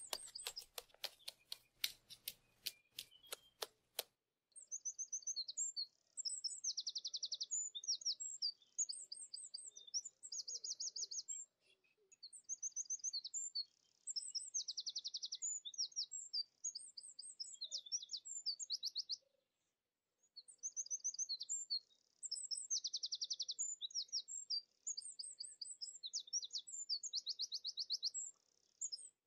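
Small songbird singing high, fast trills and chirps in repeated phrases several seconds long, with short pauses between them. The song starts after a run of sharp clicks in the first four seconds.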